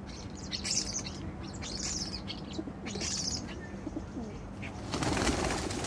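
Birds calling in a few short, scratchy high-pitched bursts over the first few seconds, followed near the end by a louder rush of noise.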